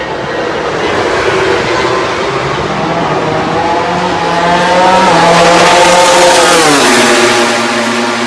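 MotoGP race bike's four-cylinder engine passing at speed: its note climbs as it approaches, is loudest about five to six seconds in, then drops sharply in pitch as the bike goes by and runs on at a steady lower note.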